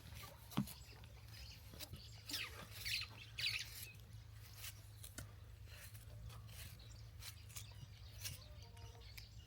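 Faint, scattered clicks and a few short high squeaks or chirps, mostly about two and a half to three and a half seconds in, over a steady low hum.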